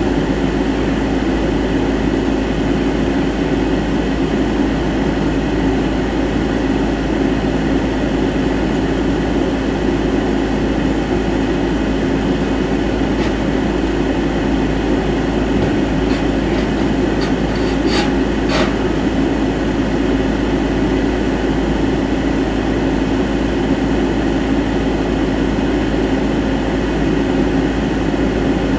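Steady hum of an idling vehicle heard from inside its cab, unchanging throughout, with a couple of faint clicks about two-thirds of the way through.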